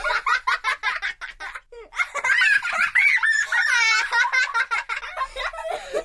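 A young child laughing: quick, pulsing giggles for the first second or so, then a longer, high-pitched laugh with the voice sliding up and down.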